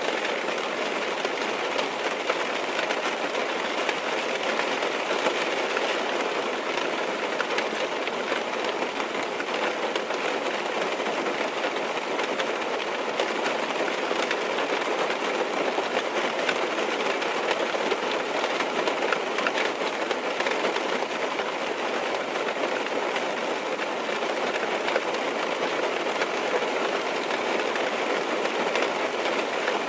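Rain falling steadily on a car's roof and windows, heard from inside the cabin: an even wash of countless small drop ticks with no change in strength.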